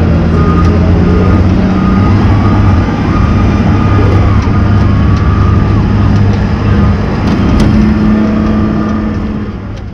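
Chevrolet Caprice derby car's V8 running loud at low speed through short exhaust pipes that come straight up through the hood, engine speed rising slightly a couple of times. The sound fades out at the very end.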